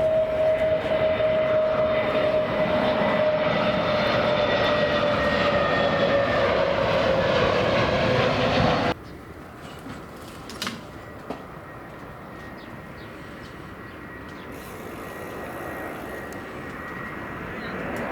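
Jet airliner on landing approach passing close: loud engine noise with a whine slowly falling in pitch, cut off abruptly about halfway through. After it, fainter aircraft noise slowly grows louder, with a few clicks.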